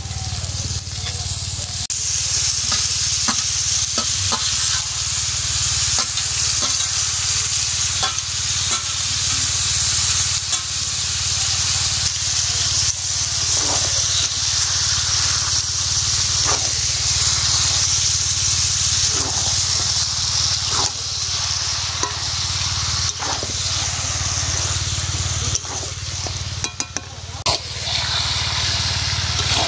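Chicken skin sizzling as it fries in a thick spice paste in a metal wok, while a steel ladle stirs it with irregular scrapes and knocks against the pan. A steady low hum runs underneath.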